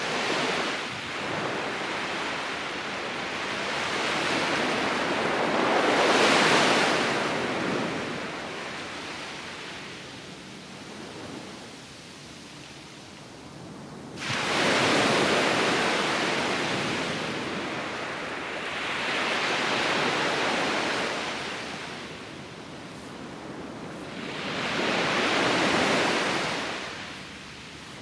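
Surf breaking on a beach: waves swell and wash in one after another, a surge every five to six seconds, one breaking with a sudden rush about halfway through.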